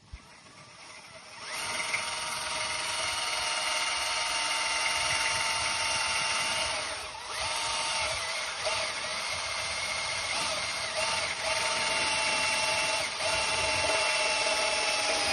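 Electric drill running steadily under load, driving a screw, with a short break about seven seconds in and small dips in pitch as it works.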